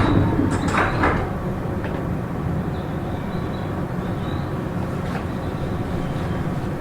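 Seibu 40000 series commuter train running along the line, heard from inside the passenger car: a steady rumble of wheels on rail, with a few knocks about a second in. No motor whine is heard.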